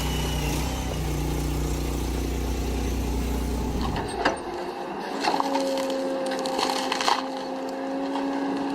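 A heavy machine's engine running with a steady low drone. About four seconds in the sound changes to a steady whine, with wood cracking and splintering several times.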